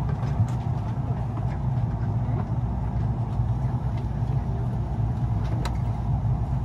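Steady low rumble of running noise inside a KORAIL 210000-series ITX-Saemaeul electric multiple-unit train, with a faint click near the end.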